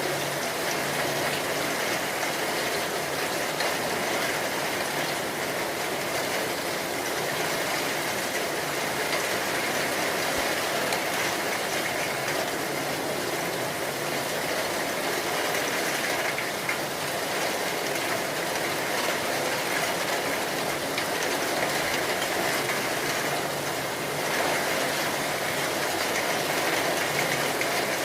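Steady, heavy rain: an even rushing hiss with no breaks.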